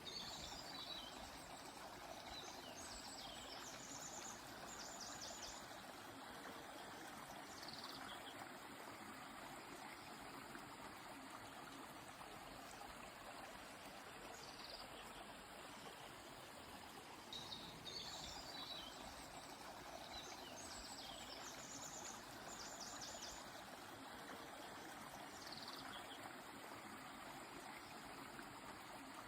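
A river's steady rushing flow, with songbirds singing short phrases over it: quick high trills and falling notes in a cluster near the start, and the same cluster again about halfway through.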